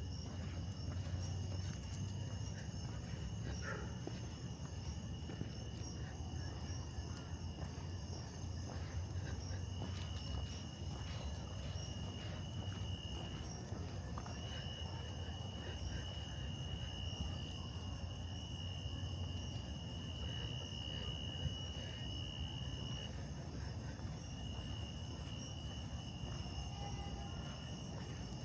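Night insects trilling: a steady high-pitched trill that breaks off and resumes a few times, over a low steady rumble.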